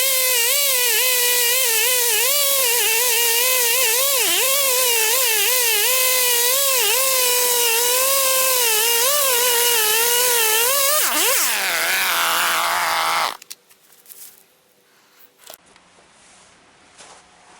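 Electric power tool running at speed while cutting wood, its pitch wavering up and down with the load. About 11 seconds in its pitch drops steeply as the motor winds down, and it stops a couple of seconds later.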